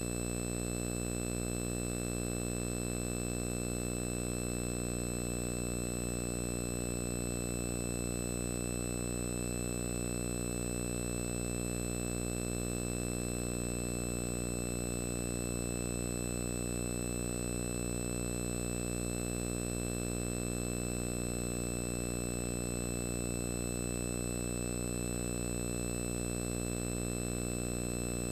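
Steady, unchanging electrical hum with a buzz of many overtones and a thin high whine above it.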